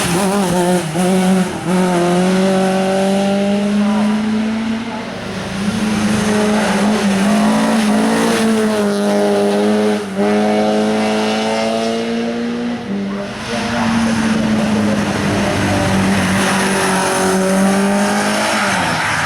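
Hill-climb race car's engine under hard acceleration, its pitch climbing and then dropping back at each upshift, several times over.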